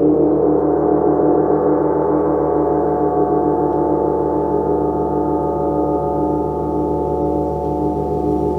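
A gong sounding with a dense wash of many overlapping tones, shimmering and beating, slowly fading away.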